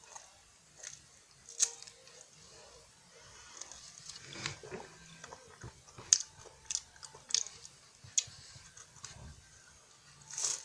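A French Pie puff-pastry biscuit being bitten and chewed close to the microphone: irregular sharp crunches and crackles, the loudest just before the end.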